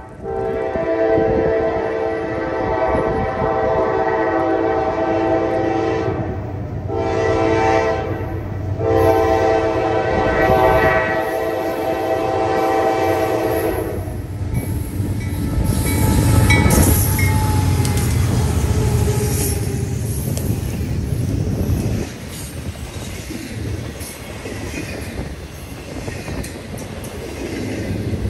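Norfolk Southern diesel locomotive's air horn blowing a long, a short and a long blast, the close of the standard grade-crossing signal, stopping about halfway through. The locomotives then rumble past and the double-stack intermodal cars roll by with wheels clattering over the rails.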